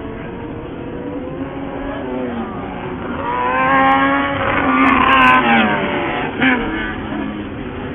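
Off-road race buggy engine revving as a buggy comes by, growing louder about three seconds in, its pitch climbing and then falling away, with a short sharp blip of throttle near the end.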